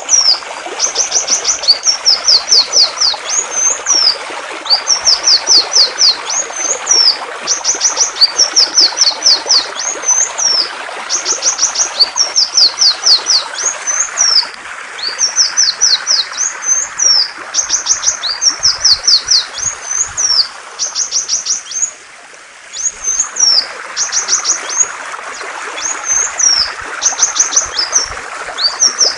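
A songbird singing one repeated phrase almost without pause: a quick run of high, downward-stroked chirps ending in a hooked note. Under it is the steady rush of flowing water, which drops away briefly about three quarters of the way through.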